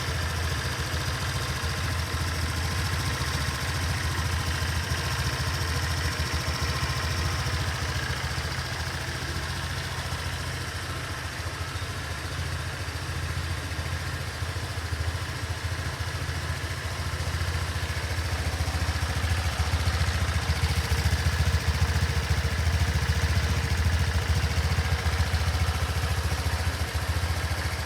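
Honda PCX125 JF56 scooter's single-cylinder four-stroke engine idling steadily, a little louder in the last third.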